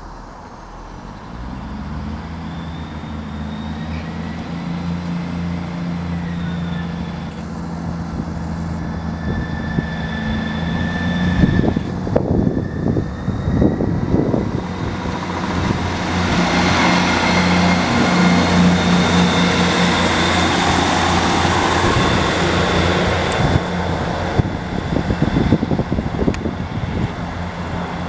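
A train running through the station, with a steady motor hum that builds up, then a broad rushing noise as it passes close by.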